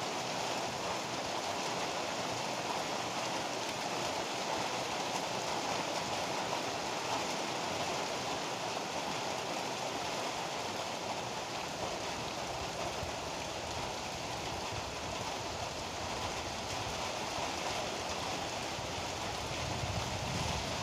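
Heavy rain pouring steadily, an even hiss of falling water. A low rumble of thunder starts to build right at the end.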